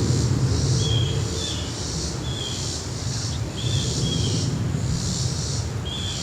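Deep, lingering rumble of a large jet airliner after it has passed, slowly fading. Short bird chirps come over it, with a high hissing pulse about once a second.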